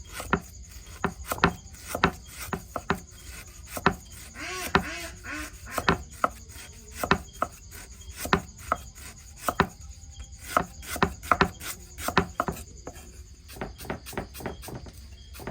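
A kitchen knife chopping food on a cutting board, in sharp, irregular strokes about one or two a second.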